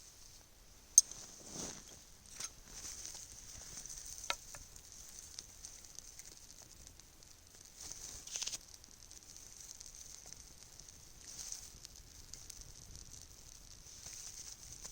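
Small campfire of sticks and bark burning, with a steady faint hiss and scattered sharp crackles and pops, one louder pop about a second in.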